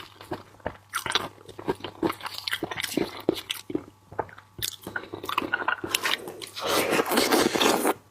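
Close-up mukbang eating sounds: a person chewing seafood with many short wet clicks and smacks, then a louder, longer noisy stretch near the end.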